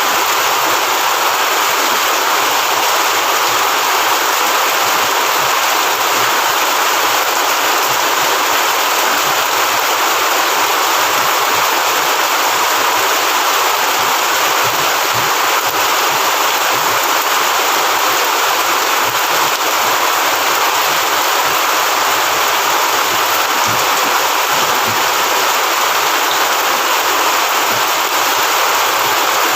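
Steady, loud heavy rain, an even rushing hiss with no breaks.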